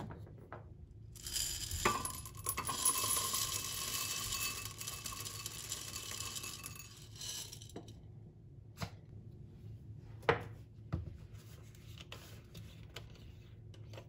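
Small household handling sounds: about six seconds of rustling, crinkling noise, then a few separate sharp clicks and taps.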